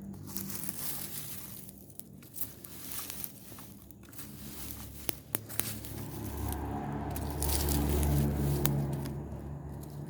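Burning rubbish pile crackling, with scattered sharp pops. About six seconds in, a low rumble swells, peaks a couple of seconds later and fades.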